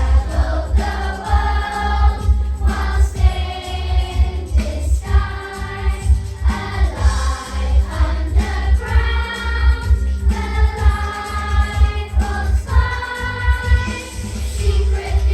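A group of young children singing a song together in unison, with musical accompaniment.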